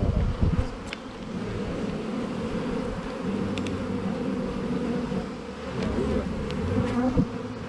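Honeybees buzzing in a steady, dense hum around opened hives. There is a brief low rumble at the start.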